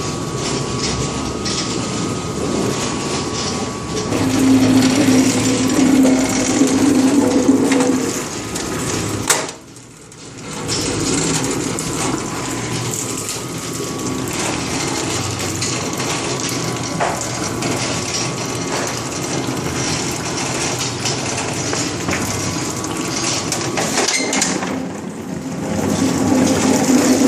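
Papa criolla potato-washing machine running with water rushing and splashing, a steady noisy wash. It gets louder about four seconds in, drops off briefly about ten seconds in, then picks up again and swells near the end.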